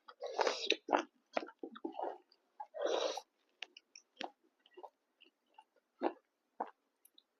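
Close-miked chewing and mouth smacking while eating pork fry and rice: irregular wet clicks and short crunchy bites, the loudest about half a second in and around three seconds in, growing sparse toward the end.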